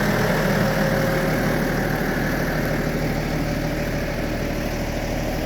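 Deutz tractor's diesel engine idling steadily, with an even low pulsing.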